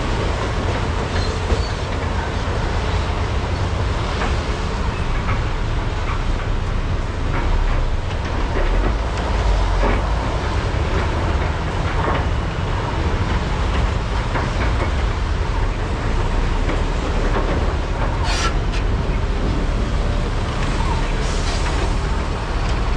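Large hydraulic excavators loading at a mine: a steady, deep diesel engine rumble with scattered knocks and clatter, and one sharp, bright metallic knock about eighteen seconds in.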